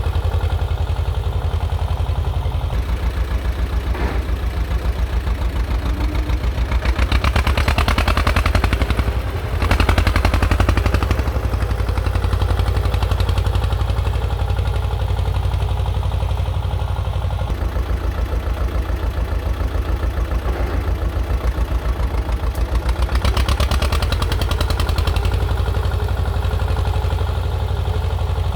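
T-16 tractor's two-cylinder air-cooled diesel running with a steady, rapid low chugging. Twice it works harder and gets louder and rougher for a few seconds: about a quarter of the way in and again near the end.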